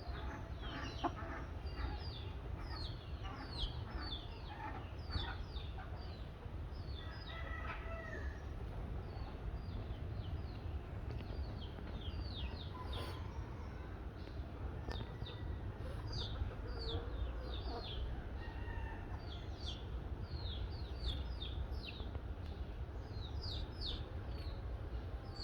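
Birds chirping: a continual run of short, high, downward-sweeping chirps in quick succession, over a steady low rumble.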